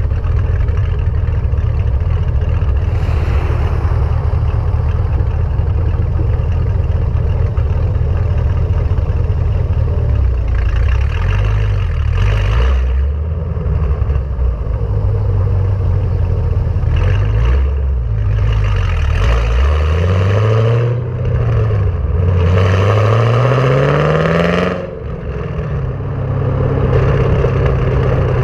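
Chevrolet Camaro SS's LS3 V8 through Kooks long-tube headers and a Borla ATAK cat-back exhaust: a steady low rumble, then the revs rise and fall several times, climb in one long pull and drop off sharply about 25 seconds in before settling back to a steady rumble.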